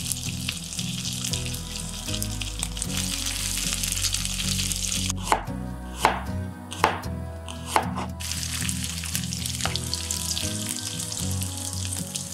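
Broccoli florets and broad beans coated in grated cheese sizzling steadily in oil in a frying pan. About five seconds in the sizzle gives way to four knife strokes slicing garlic on a cutting board, about one a second. The sizzle then returns with the garlic slices in the pan.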